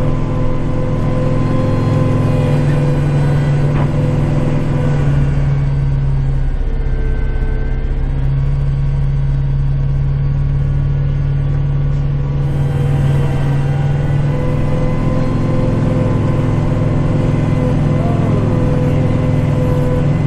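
Kubota tractor's diesel engine running steadily while plowing snow, its pitch dipping briefly and then recovering about six to eight seconds in.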